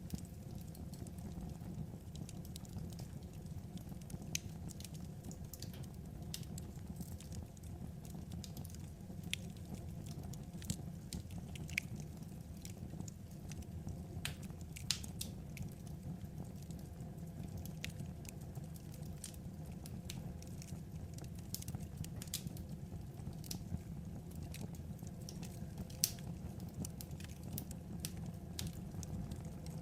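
Wood fire crackling: irregular sharp pops and snaps from burning logs over a steady low rumble, with one louder pop near the end.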